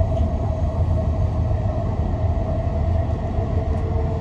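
SkyTrain running, heard from inside the train: a steady low rumble with a steady whine over it, joined by a second, lower whine about three seconds in.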